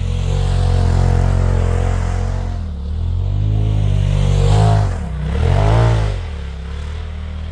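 Polaris RZR side-by-side's engine running steadily, then revved up and back down twice in quick succession about halfway through, before settling back to a steady run.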